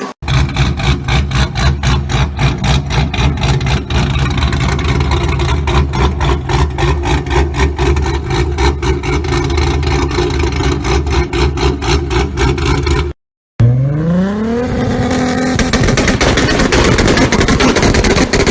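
Car engine running with a loud, regular rapid pulsing. About thirteen seconds in it cuts off, and a second car engine revs up, its pitch rising and then holding high.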